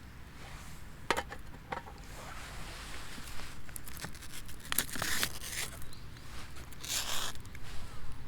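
Short bursts of rustling, scraping and crinkling, as of gear or material being handled, several times, the loudest about five and seven seconds in.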